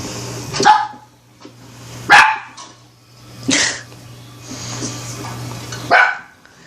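A dog barking four separate times, single sharp barks one and a half to two and a half seconds apart.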